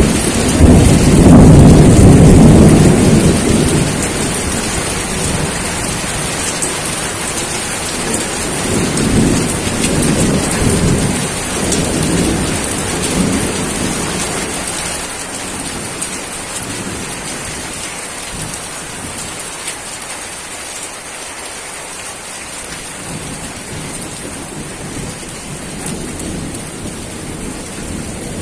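Steady rain with thunder. A loud low roll of thunder fills the first few seconds, weaker rumbles come around ten seconds in, and then the thunder dies away, leaving only the hiss of the rain.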